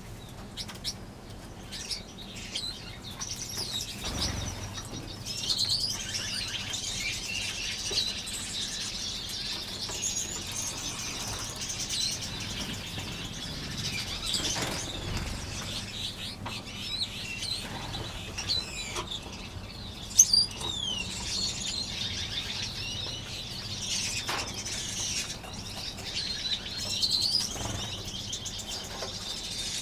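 A flock of small finches in an aviary chirping constantly, with wing flutters and a few soft thumps. A sharp click about twenty seconds in is the loudest sound.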